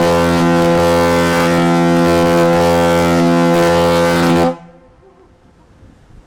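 Ship's horn sounding one long, loud, steady blast that cuts off sharply about four and a half seconds in.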